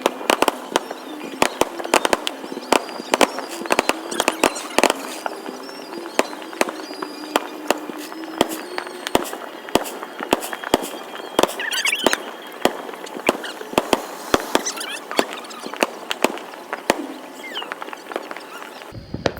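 Fireworks going off: a dense, irregular string of sharp pops and bangs, with a brief burst of crackle about twelve seconds in. The sound breaks off abruptly just before the end.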